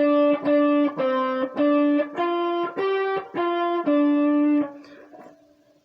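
Guitar playing a slow single-note blues lick: about eight separate notes that step up a little in pitch and come back down, ending on a longer held note that fades out.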